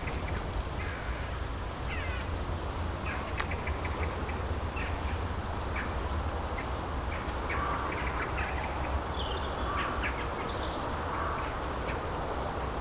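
Outdoor ambience: scattered short bird calls over a steady low rumble.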